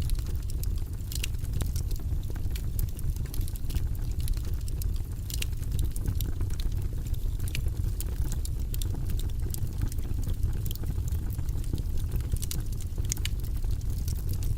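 Fire burning in a fireplace: a steady low rumble with frequent, irregular crackles and pops.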